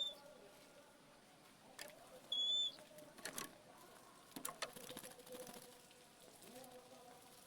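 Oriental magpie-robin giving a short, clear whistle with an upward flick, once at the start and once, louder, about two seconds in, with a few sharp clicks and taps in between.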